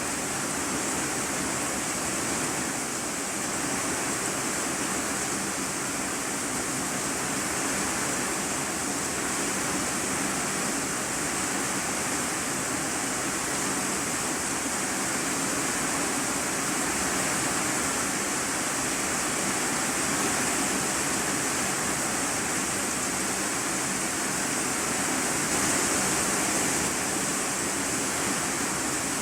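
Rain falling on an iron-sheet roof, heard from the room beneath: a steady, dense hiss.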